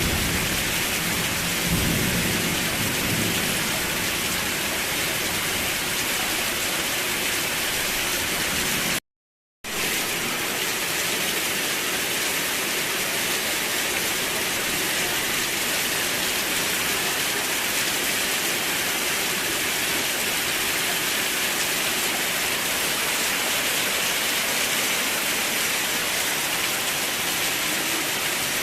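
Steady rain hiss with a low thunder rumble fading out over the first few seconds. About nine seconds in, the sound cuts out completely for about half a second, then the rain picks up again, steady and without thunder.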